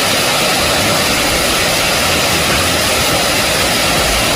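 Heavy hail falling and striking hard surfaces, a dense, steady noise with no let-up.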